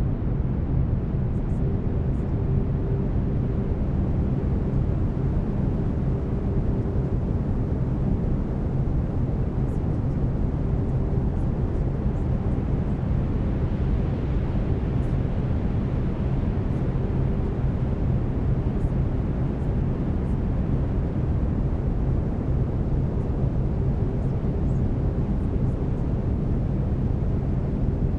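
Steady brown noise, a deep even rushing hiss weighted to the low end, with faint steady low tones underneath from the binaural delta-wave beats.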